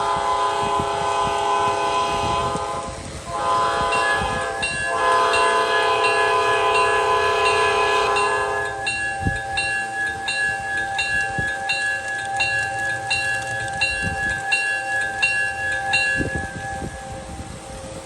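Model diesel locomotive's sound system sounding its air horn for a grade crossing: two long chord blasts, the second held about five seconds. A locomotive bell then rings steadily for several seconds.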